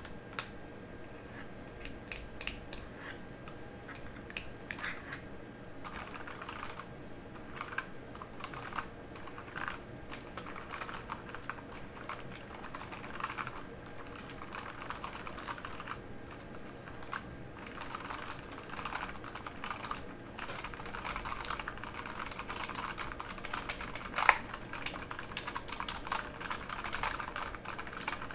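Typing on a mechanical keyboard: a steady, continuous run of key clicks, with one sharper, louder clack about three-quarters of the way through.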